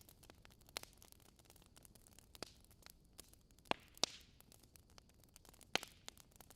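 Logs burning in a fireplace, crackling: scattered sharp pops and snaps over a faint steady hiss, the loudest two coming close together a little past halfway.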